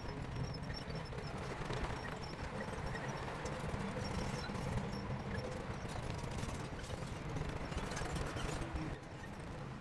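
Shantui crawler bulldozer working: its diesel engine runs with a steady low drone while the steel tracks clatter with quick, irregular knocks. It gets slightly quieter near the end.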